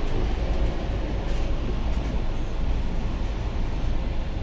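Steady low rumble and rattle of a moving passenger train, heard from inside a sleeper coach.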